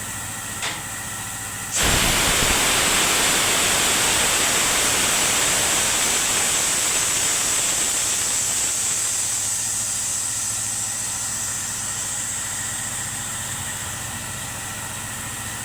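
Honda Pop 100 single-cylinder engine idling with the abnormal engine noise under investigation. A loud steady hiss begins abruptly about two seconds in and slowly fades.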